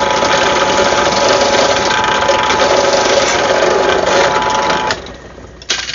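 Electric drill with a 5/32 bit running and boring a tap hole in very soft metal, which the maker takes for aluminum. The drill stops about five seconds in, and a light click follows near the end.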